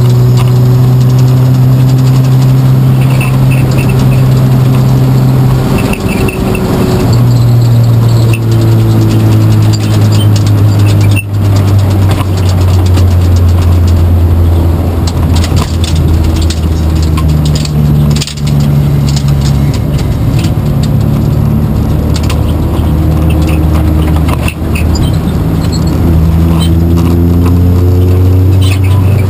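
Racing car engine running hard and loud with a steady note that steps down in pitch a few times, each step marked by a brief drop in loudness, and climbs again near the end. Light rattling rides along with it.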